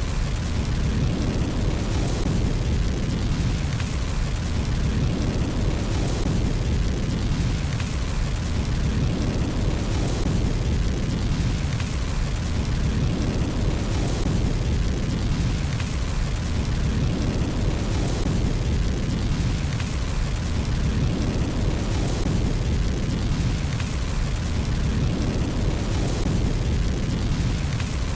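Fireplace fire burning: a steady low rumble with faint crackles that recur about every two seconds.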